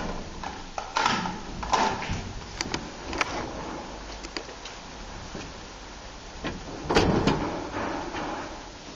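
Old railway-station freight elevator in operation: a low steady hum with a series of clanks and knocks, the loudest pair about seven seconds in.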